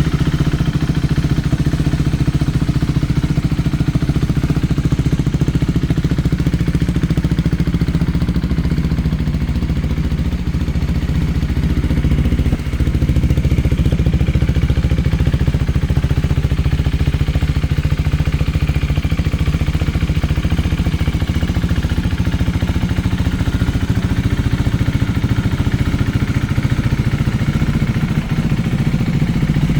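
KTM 390 Duke's single-cylinder engine idling steadily, a little louder from about twelve seconds in.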